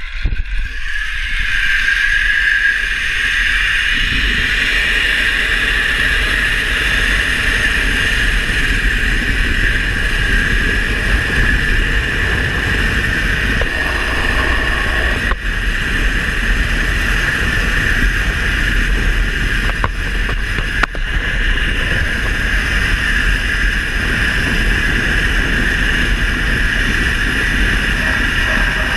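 Motorcycle under way: steady rush of wind and road noise over a low engine drone, with wind buffeting the microphone.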